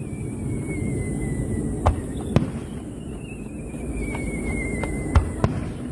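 Fireworks display: four sharp bangs, two near the middle and two near the end, over a steady low rumble, with a thin whistle tone slowly falling in pitch twice.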